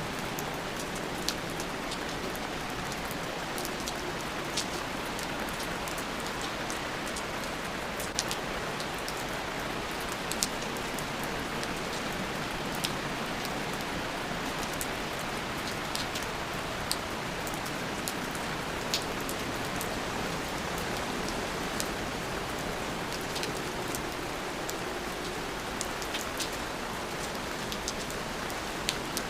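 Steady rain falling, an even hiss with scattered sharp drops ticking close by.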